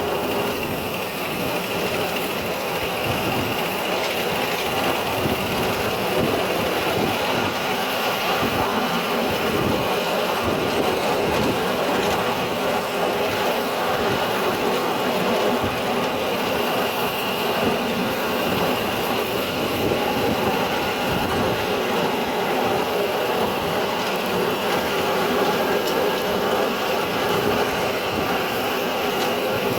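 Miniature steam train running steadily along the track, its wheels rattling over the rails.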